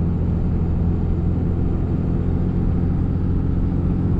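Steady drone of a vehicle's engine and road noise heard from inside the cab while cruising, with a constant low hum and no change in speed.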